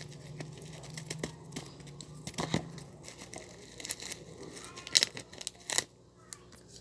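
Packaging being handled while a parcel is unpacked: rustling and crinkling with scattered sharp clicks, the loudest two about five and six seconds in. A low hum underneath stops about three seconds in.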